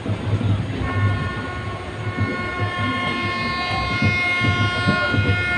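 Passenger train running in, heard from aboard: the coach wheels rumble and clatter on the track, and about a second in a locomotive horn starts one long, steady blast that is still sounding at the end.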